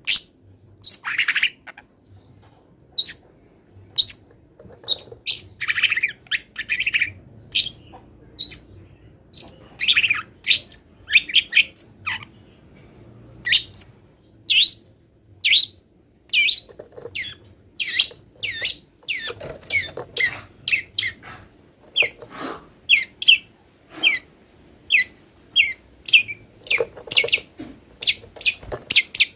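Long-tailed shrike (cendet) singing a fast string of short chirps and down-slurred whistles, a couple each second, broken by a few harsher, raspy notes. It is a song full of imitated calls of other wild birds.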